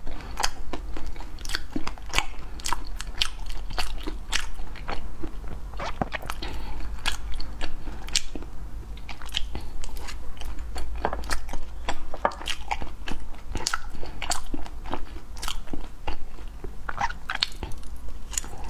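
Close-miked chewing and mouth sounds of a person eating Oreo-crumb-coated glutinous rice balls (tangyuan): an irregular run of sharp, wet clicks and smacks, several a second. A steady low hum runs underneath.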